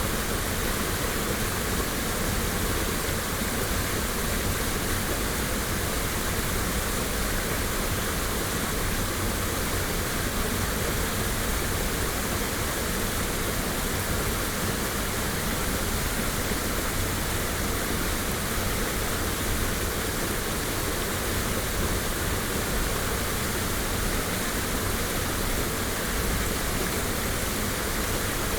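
Waterfall pouring with a steady, unbroken rush of water, binaurally recorded.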